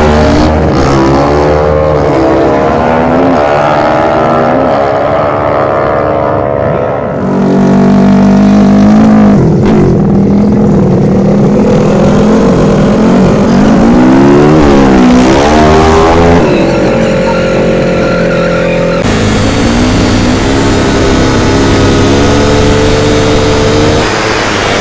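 Loud racing motorcycle engines revving hard and passing at speed, their pitch climbing and falling, with the sound changing abruptly about seven and nineteen seconds in.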